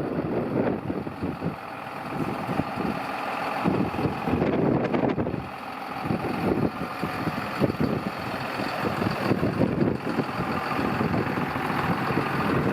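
John Deere 6820 tractor's six-cylinder diesel engine running, its level rising and falling unevenly.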